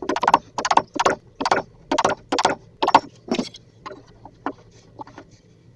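Wood chisel being struck repeatedly, chopping out the recess for a lock keep in a wooden door frame: about eight sharp blows, roughly two a second, then a few lighter taps.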